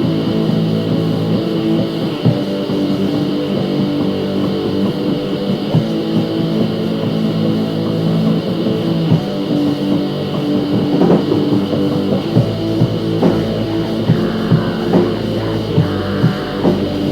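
Rock music: guitar with drums, at a steady, loud level throughout.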